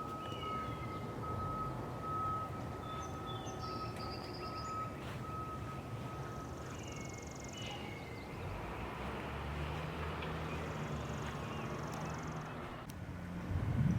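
Outdoor ambience: a steady low rumble of distant traffic, with scattered bird chirps and a steady high tone through the first half.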